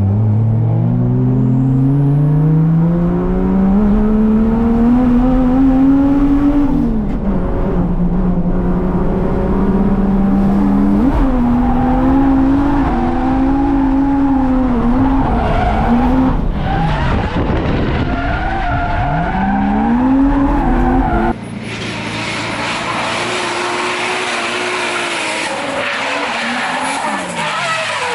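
Drift car engine revving hard, its pitch climbing and dropping repeatedly as it shifts and slides, with tyres squealing in the drifts. About two-thirds of the way through the sound changes abruptly to a thinner, hissier engine and tyre noise.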